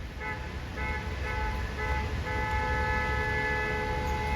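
Streetcar giving off a steady electrical whine of several pitches at once. It pulses on and off at first and is held from about halfway through, over a low traffic rumble. The sound is odd enough to raise the question of whether the streetcar is stalling.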